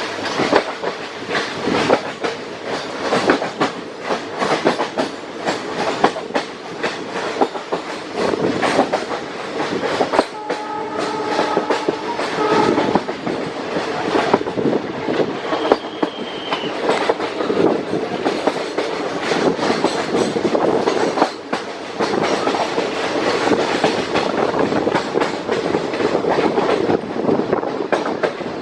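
Goa Express passenger train running along the track, its wheels clicking and knocking over the rail joints throughout. About ten seconds in, the locomotive's horn sounds for two to three seconds.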